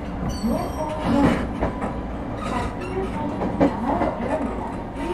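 Interior running noise of an ET127 series electric train: steady wheel-on-rail rumble with rattles and knocks from the car.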